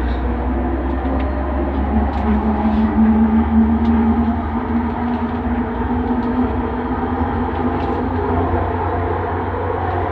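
Bombardier Innovia Metro 300 train heard from inside, running at speed: a steady rumble with a motor hum that swells for a few seconds about two seconds in, and a few faint clicks.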